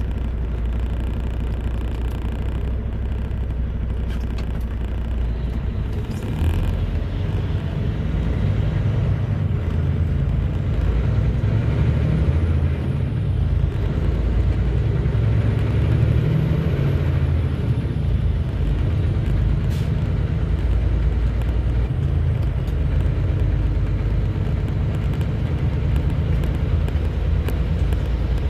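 Semi-truck engine running as the rig pulls a trailer, a steady low rumble that steps up louder about six seconds in.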